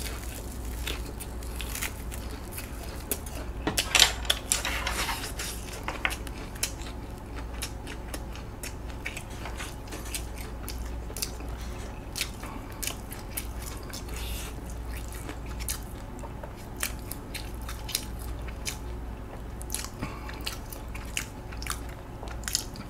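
A person eating close to the microphone: biting and chewing a crispy fried Korean hot dog and chewy rice cakes (tteokbokki), with crisp crunches and wet chewing, the loudest bites about four seconds in. A steady low hum runs underneath.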